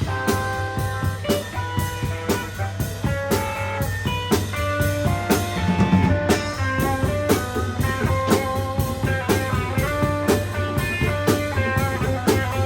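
Live rock band playing an instrumental passage: guitar notes over drum kit and bass, with a busy, steady drum beat.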